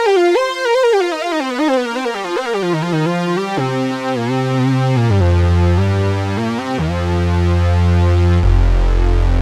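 Roland JD-XA synthesizer playing a custom lead patch: a single melodic line with vibrato that steps downward, then low bass notes and held chords come in a little over a third of the way through.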